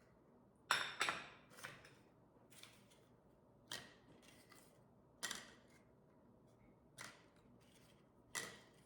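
A series of about eight short, sharp clicks or snips at uneven intervals, each dying away quickly.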